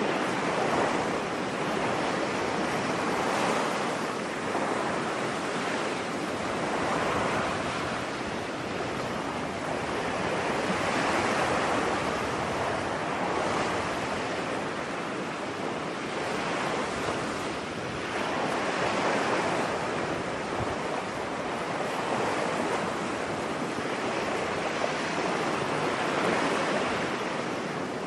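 Ocean waves breaking and washing on a beach, a steady surf hiss that swells and eases every few seconds.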